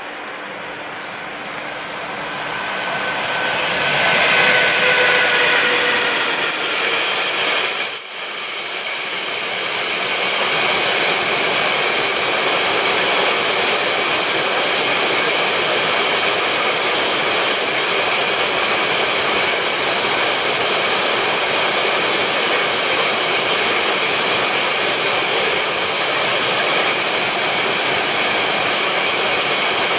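Siemens Vectron class 193 electric locomotive hauling an intermodal freight train past: the noise swells to its loudest about four seconds in, with a steady whine, as the locomotive goes by. The container wagons follow in a long, even rolling rumble of wheels on rail.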